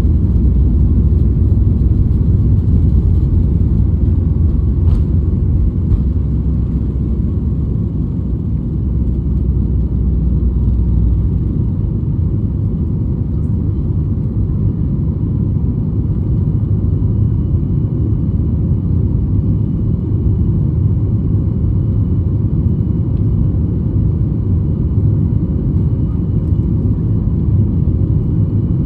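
Cabin noise inside a Boeing 737 MAX 8 at takeoff: the CFM LEAP-1B engines and airflow make a steady, loud low rumble. The deepest part of the rumble eases about eleven seconds in, and there are two light clicks around five and six seconds in.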